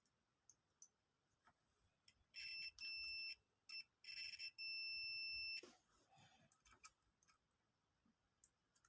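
Digital multimeter's continuity beeper giving a steady high-pitched beep in several broken bursts, starting about two and a half seconds in, the last about a second long, as the probes make and break contact across a microwave switch: the beep signals that the switch is conducting.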